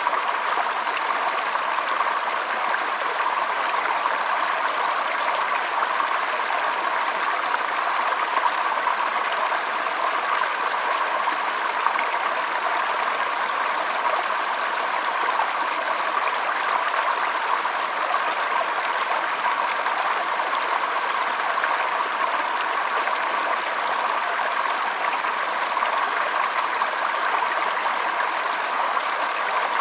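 Shallow stream flowing with a steady trickling babble of water, even and unbroken throughout.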